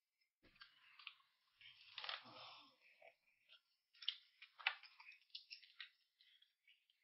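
Faint eating sounds: a person chewing, with irregular small clicks and smacks, the loudest about four and a half seconds in.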